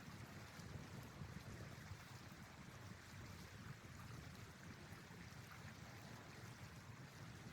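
Near silence: a faint, steady hiss with a low rumble underneath and a few faint ticks.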